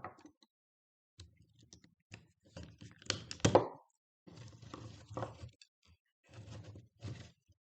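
Irregular knocks, clicks and scraping from tools working on a lithium-ion battery pack during its teardown, the loudest knock a little after three seconds in.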